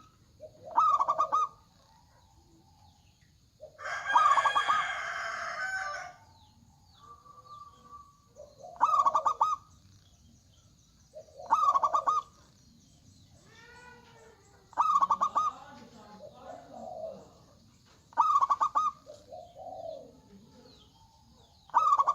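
Zebra dove (perkutut) cooing six times, each song a quick stuttering run of notes followed by a lower coo. About four seconds in comes a louder, two-second call rich in overtones, the loudest sound here. Under it all runs a faint steady high hiss.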